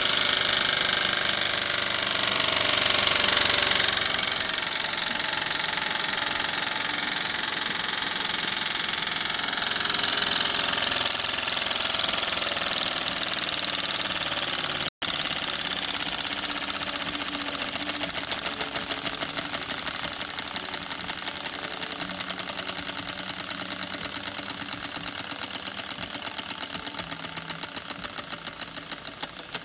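Jensen #76 model steam engine running: a steady hiss of steam with rapid, even exhaust puffs. In the second half the puffs stand out more clearly and the whole sound slowly fades as the engine runs down.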